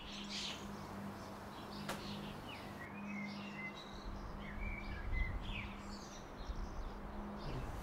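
Small birds chirping in short rising and falling calls over a steady low hum, with a low rumble coming up about halfway through and a single sharp click near the start.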